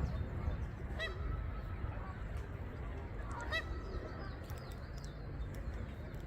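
Bird calls: two short calls, about a second in and again about two and a half seconds later, over a steady low rumble.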